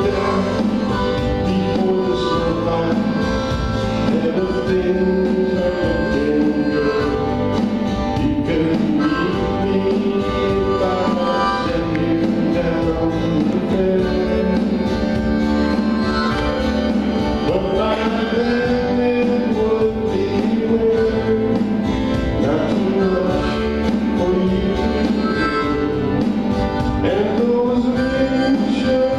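Live band playing a slow country-folk song, with acoustic guitar and keyboard under a melodic lead line, continuous throughout.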